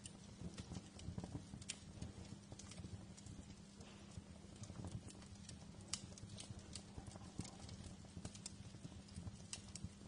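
Wood fire crackling in a fireplace: a steady run of irregular small pops and snaps, with a faint steady low hum underneath.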